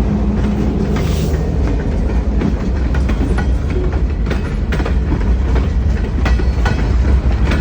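Freight train rolling past, a steady low rumble of the cars with repeated clicks and knocks from the wheels on the rails.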